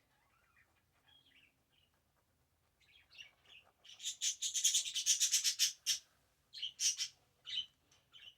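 Small birds chirping: a few faint chirps, then a fast run of sharp, high chirps at about ten a second lasting about two seconds, followed by several separate chirps near the end.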